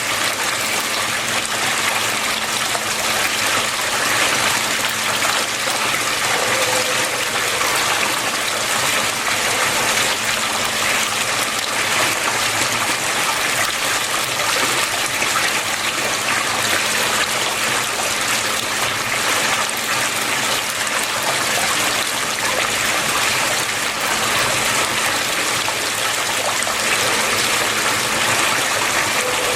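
Water flowing steadily, a continuous even rush of splashing water with a faint steady hum underneath.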